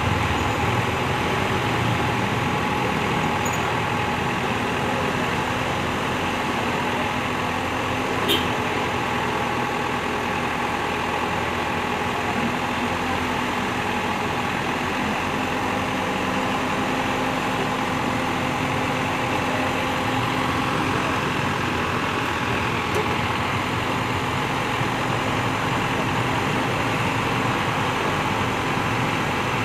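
Truck crane's diesel engine running steadily, with one short sharp click about eight seconds in.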